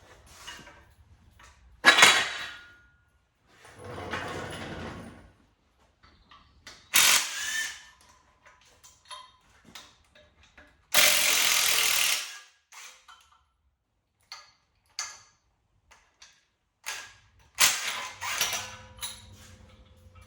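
Shop work on an engine install. Scattered metal clanks and knocks are heard, with a loud, even burst of tool noise lasting about a second near the middle.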